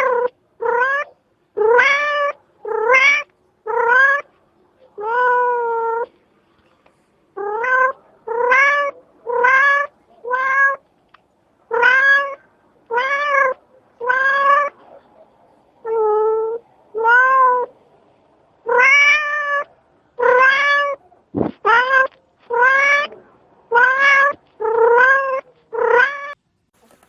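A domestic cat meowing over and over, about one meow a second, each call rising in pitch at its start. There is one sharp click about two-thirds of the way through.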